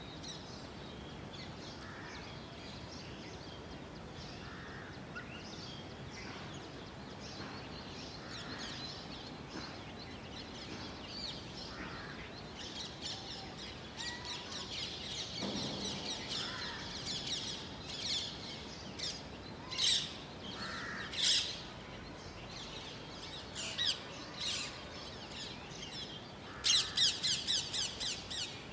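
Several birds chirping at sunrise. The calls grow busier after about thirteen seconds, and a quick run of loud notes comes near the end.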